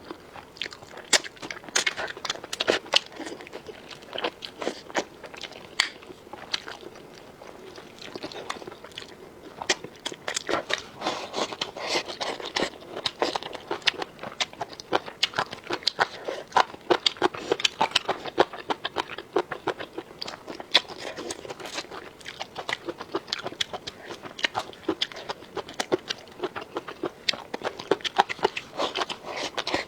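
Close-miked chewing and biting of crisp food, a continuous run of irregular sharp crunches that grows busier about a third of the way in.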